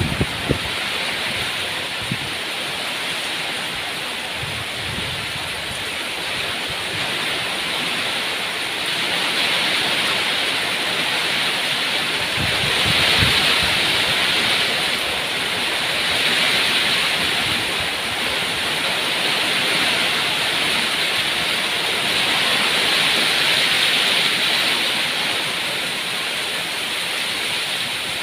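Rain falling steadily, an even hiss that grows a little louder in the middle, with a few soft low thuds about twelve seconds in.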